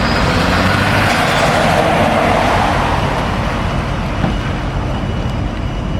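Steady vehicle road noise, swelling for a couple of seconds about a second in, as of a vehicle passing.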